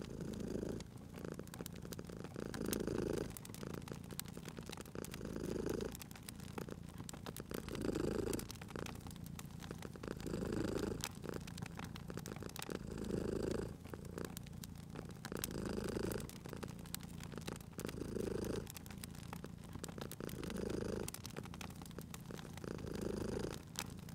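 A domestic cat purring steadily, swelling about every two and a half seconds with each breath. A crackling wood fire snaps and pops lightly throughout.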